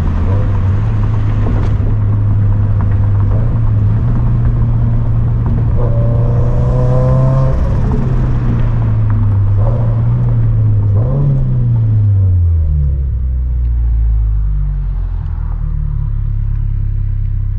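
Turbocharged Scion FR-S flat-four engine and catless aftermarket exhaust heard with the windows part down while driving. The engine note climbs through the revs for the first ten seconds or so, drops away about eleven seconds in as the car eases off, then settles to a lower, steady drone.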